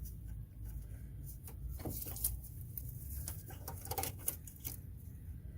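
Scattered light clicks and rustles of hands working loose wiring-harness connectors and plastic clips on a car's front frame, over a low steady hum.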